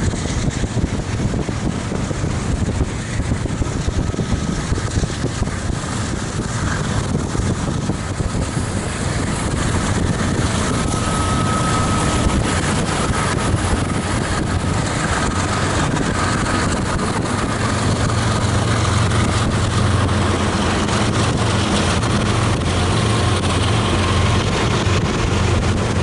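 A BNSF freight train's diesel locomotives and cars rumbling past, mixed with steady wind noise on the microphone. A deeper engine drone builds in the last third.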